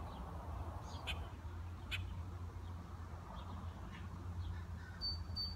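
Outdoor ambience with a steady low rumble and a few short bird chirps, then a high, rapidly pulsing bird trill starting near the end.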